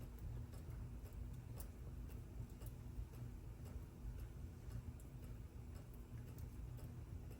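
Mechanical clock ticking steadily, about two ticks a second, over a low steady rumble.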